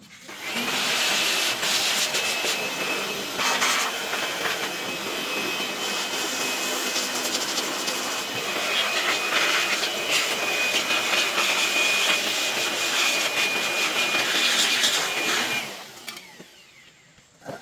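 A loud steady hissing machine noise with a thin high whine in it, running about fifteen seconds, starting just after the start and cutting off near the end, typical of a power tool or a compressed-air jet in a workshop.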